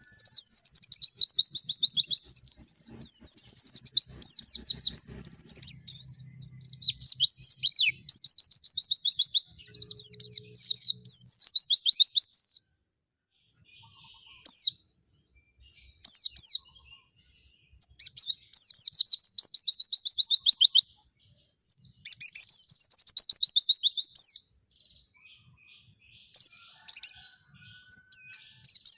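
White-eye (pleci) in full song, giving fast, high twittering phrases of a second or two each. A stretch in the middle and another near the end hold only scattered short chirps.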